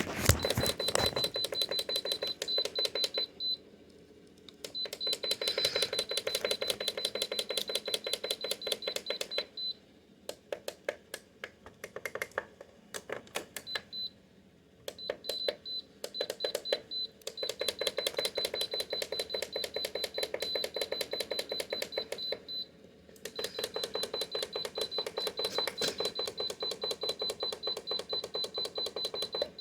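Rapid, even mechanical clicking in long runs with a faint high steady tone underneath, stopping and starting again several times.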